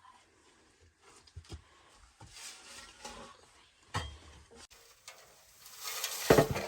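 Scattered clinks and knocks of metal pots, pans and utensils being handled, with a louder burst of clattering near the end.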